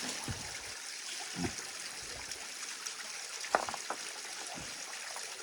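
Stream water running steadily over stones, with a brief sharp knock a few seconds in.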